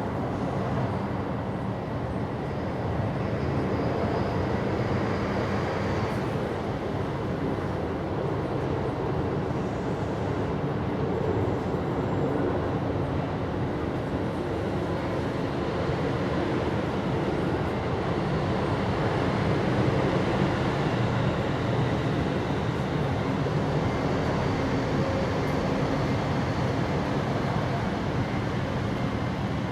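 A steady, even rumble and hiss with a few faint steady tones, unchanging throughout and with no distinct events.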